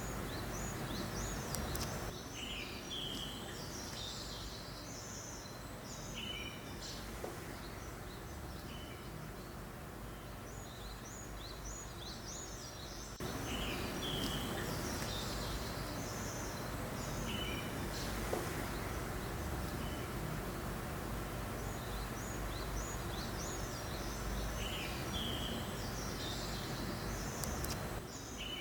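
Small birds chirping in short, repeated calls over a steady rush of wind. The wind noise shifts level abruptly a few times.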